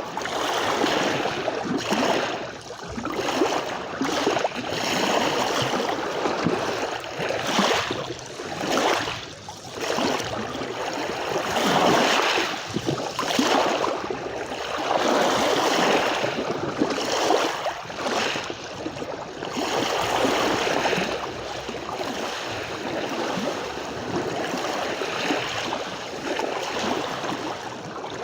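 Sea waves washing onto a beach, a continuous rush of surf that swells and eases every few seconds.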